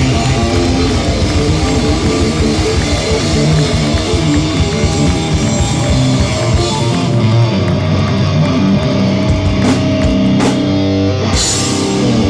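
Live hardcore band playing loud, with distorted electric guitars and a drum kit: a fast, busy section that about halfway through gives way to held chords struck by a few separate cymbal crashes as the song winds down.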